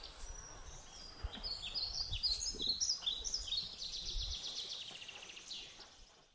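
Birds calling in the bush: a rapid trill, and a run of short chirps that step downward, over a low rumble that stops about four seconds in. It all fades out near the end.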